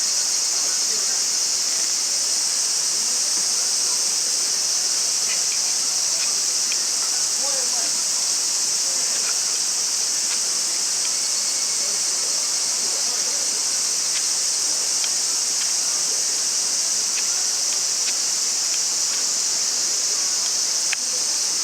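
A steady, high-pitched chorus of insects, with no pauses or changes. A few faint, scattered crackles from the campfire can be heard above it.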